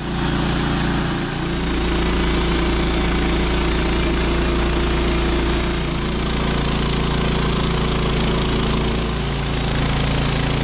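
Engine-driven saw running steadily under load while cutting through a log, a rough rasping noise over a constant engine note.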